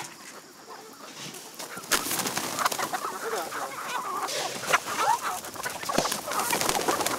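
A flock of chickens clucking, getting busier and louder about two seconds in, with scattered clicks among the calls.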